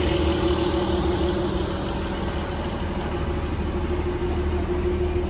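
Pikes Peak cog railway train's engine running steadily: a constant low hum with a steady mid-pitched tone over it.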